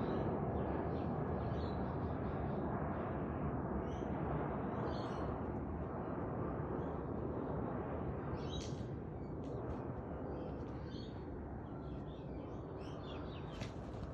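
Boeing 737-800 airliner's CFM56 jet engines rumbling overhead, slowly fading as the plane flies away. Birds chirp repeatedly over the rumble.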